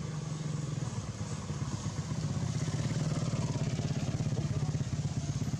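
A small engine running steadily with a fast, even pulse, growing louder about two seconds in.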